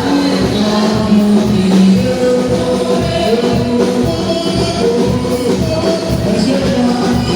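Gospel song with group singing over a steady drum beat.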